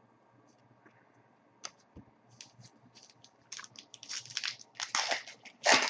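Crinkling and tearing of a foil trading card pack wrapper as it is opened, in scattered crackles that come thicker and louder in the last couple of seconds.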